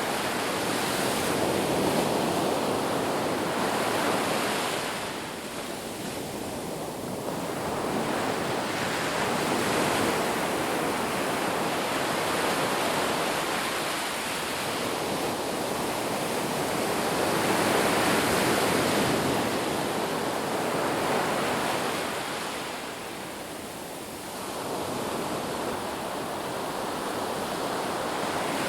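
Sea waves breaking in a continuous rush of surf that swells and fades in slow surges, with quieter lulls about a fifth of the way in and again near the end.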